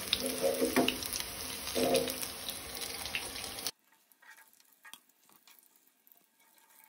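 Breadcrumbed vegetable cutlets shallow-frying in hot oil, sizzling steadily, with a few knocks and scrapes of a perforated metal spoon in the pan as they are lifted out. The sizzle cuts off suddenly a little over halfway through, leaving only faint clicks.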